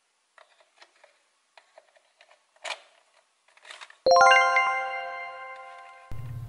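Light clicks of hard plastic toy parts being handled and pressed into place, with one sharper click near the middle. About four seconds in, a bright chime sound effect rings out and fades slowly, and a low buzz starts near the end.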